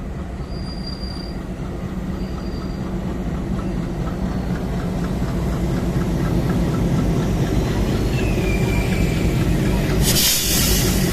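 Passenger train running on the rails, getting steadily louder, with short high wheel squeals and an even clatter of wheels over the track. About ten seconds in, a loud hiss lasts about a second.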